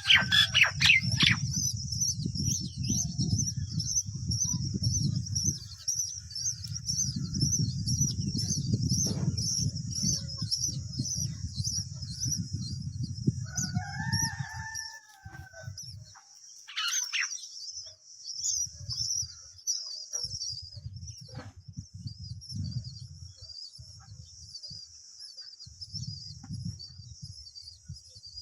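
A rooster crows once, about halfway through, over a continuous fast, high-pitched chirping. A low rumble runs through much of the first half.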